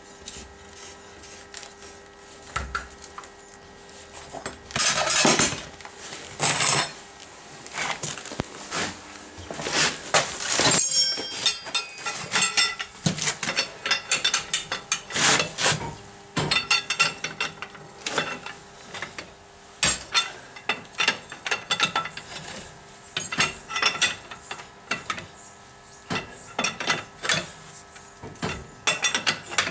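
Metal hand tools and parts clinking and clicking in irregular bursts, the sound of hand work on the car's suspension.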